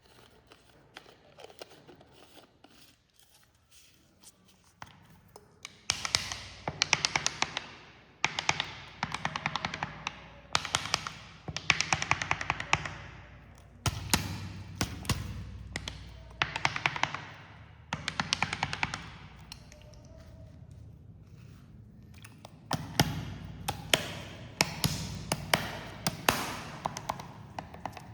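Carbonated cola being poured into glasses in a run of pours each lasting a second or two, the liquid splashing with a dense crackle of fizzing bubbles. Between pours and in the first few seconds there is a quieter fizz with scattered small clicks.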